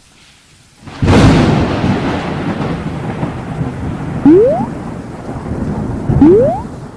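A sudden crack of thunder about a second in, then a steady rush of rain-like noise. Two short rising whistle-like glides cut through it, about two seconds apart near the end.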